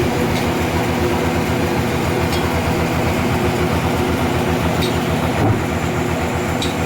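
Sawmill machinery running steadily: an engine note with a fast low pulse, with a brief low bump about five and a half seconds in.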